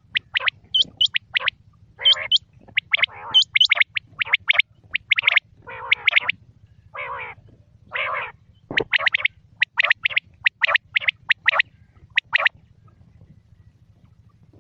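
Quail calling: a rapid run of short, sharp, rising notes, broken by a few harsher rasping calls in the middle. The calls stop about two seconds before the end, leaving a faint low hum.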